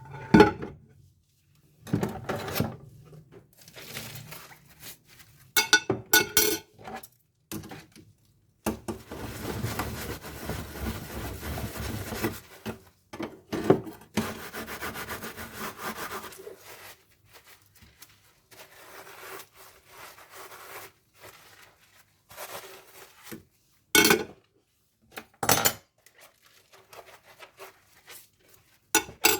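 Dishes being washed by hand: rubbing and scrubbing, with dishes and cutlery clinking and knocking against each other a number of times, and a longer steady stretch of noise in the middle.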